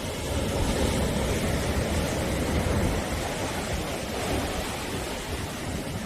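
Sea waves washing onto the shore in a steady, unbroken surf noise, swelling a little about a second in and easing again after about three seconds.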